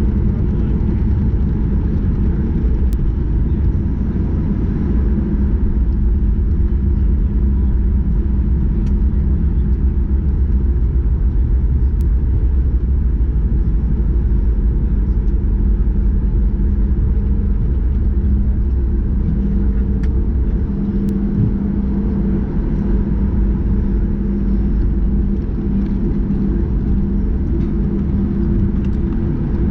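Cabin noise of a Boeing 737 MAX 8 rolling on the ground after landing: a steady low rumble from its engines and airframe, with a faint steady hum underneath.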